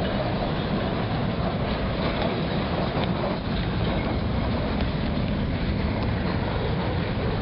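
Freight train of flatcars rolling past: a steady rumble of steel wheels on the rails.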